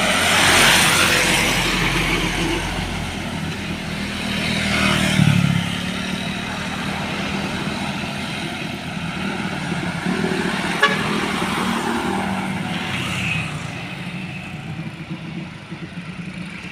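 Road traffic with trucks and other vehicles passing close by one after another. The loudest pass swells in the first second and another at about five seconds, with a single sharp click near eleven seconds.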